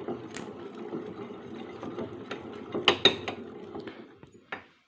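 Hand tools working on a motorcycle engine: a steady ratchet-like clicking with a few sharp metal clinks, dying away near the end.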